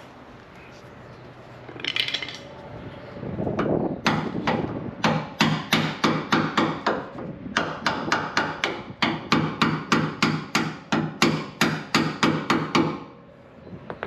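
Rapid hammer blows, about four a second, starting around three and a half seconds in and stopping about a second before the end.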